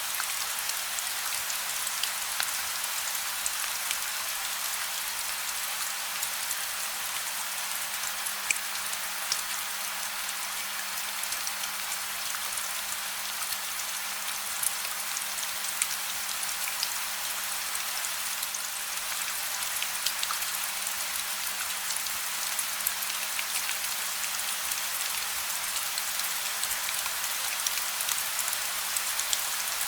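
Steady gentle rain without thunder: an even hiss with many sharp, scattered drop ticks, and a faint low hum underneath.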